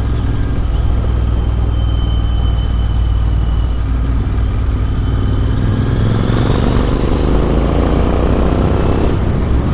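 Royal Enfield Interceptor 650's parallel-twin engine running through an aftermarket Motowings exhaust while riding. The pitch rises steadily as it accelerates from about six seconds in, then drops about nine seconds in.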